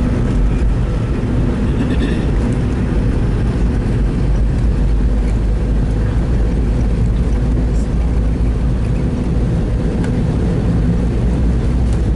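Steady low rumble of a McDonnell Douglas MD-82 airliner's rear-mounted Pratt & Whitney JT8D turbofans and airflow, heard inside the passenger cabin during takeoff.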